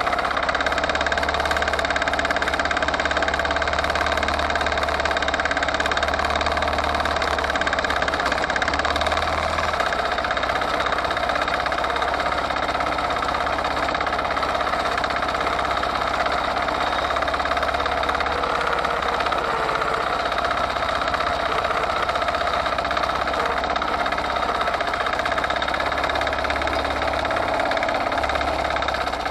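Forte 135E walk-behind tractor's single-cylinder diesel engine running steadily while the machine is driven along, with a knocking clatter.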